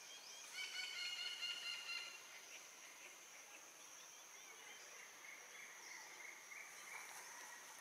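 A bird gives a rapid run of repeated chattering notes for about the first two seconds. After that, only a faint steady high hiss of outdoor ambience remains.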